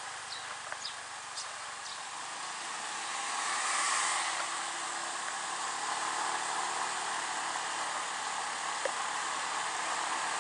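Riding noise from a Honda PCX scooter: a steady rush of wind and road noise that swells about four seconds in and stays a little louder, with a few light ticks near the start.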